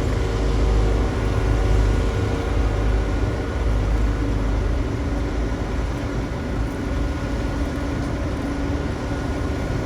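Heavy construction machine's engine running steadily with a low rumble, a little quieter from about halfway through.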